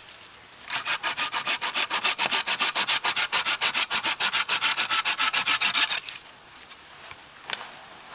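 Hand saw cutting through wood with fast, even back-and-forth strokes. It starts just under a second in and stops about six seconds in, followed by a light knock.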